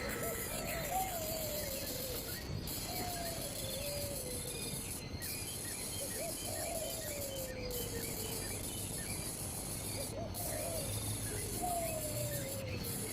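Bird calls: a low whistled note sliding down in pitch, lasting about a second and a half and repeated every three seconds or so, over a run of faint, quick high chirps.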